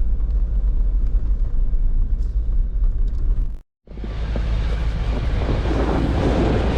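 Jeep driving a dirt trail, heard from inside: a steady low engine and drivetrain rumble. A little over halfway it cuts out to silence for a moment, then a louder rushing noise takes over.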